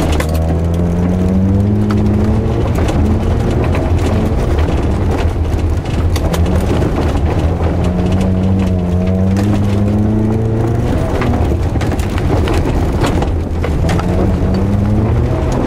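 A car's engine heard from inside the cabin, worked hard through a rallycross run. Its pitch climbs and drops several times as the driver accelerates and lifts between corners, with scattered knocks and rattles over it.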